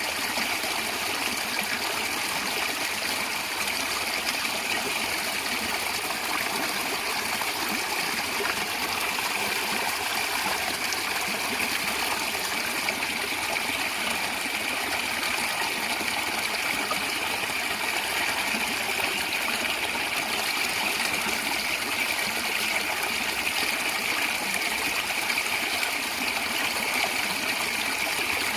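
Natural stream water flowing and gurgling steadily, a continuous even rush with no breaks.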